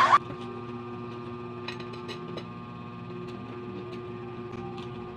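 Soft chewing of a mouthful of shredded cabbage salad: a few faint clicks and crunches, most of them about two seconds in, over a steady hum.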